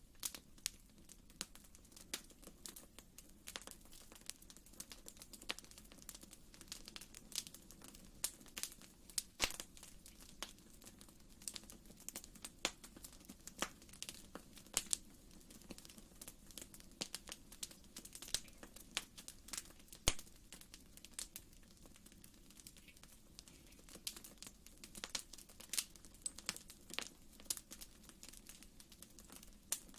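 Wood fire in a fireplace crackling: irregular sharp pops and snaps, several a second, over a faint steady low noise.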